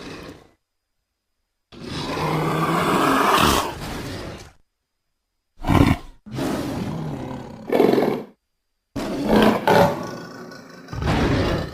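Big-cat roars and growls voicing a Barbourofelis, mixed from smilodon, cave lion and leopard recordings. A roar of about three seconds comes first, then a short growl, another roar, and more roars near the end, with dead silences between them.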